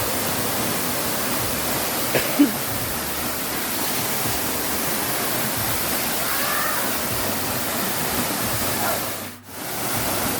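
Steady rush of falling and running water from a waterfall and the river below it. It drops out briefly near the end.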